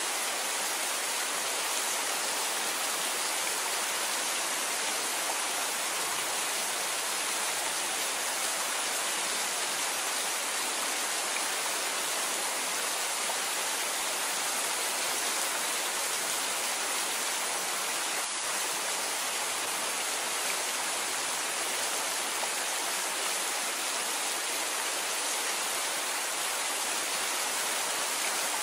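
Steady rainfall: an even, unbroken hiss with no thunder or music.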